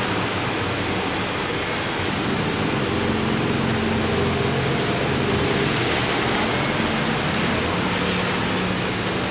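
Steady hiss of rain and traffic on a wet road, with a faint low engine hum from passing vehicles under it.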